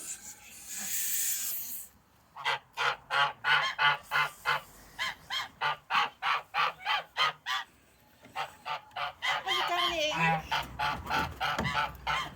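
Domestic geese honking in rapid short calls, about two to three a second, overlapping near the end. A breathy hiss lasting about a second and a half comes first.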